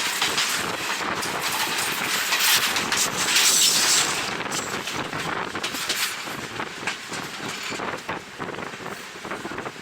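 Passenger train running along the track, with wind blowing on the microphone. The rushing noise swells about two and a half seconds in, then eases off toward the end.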